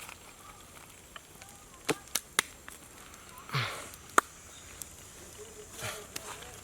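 Sharp knocks or clicks: three in quick succession about two seconds in, a short swish a second later, then one louder knock.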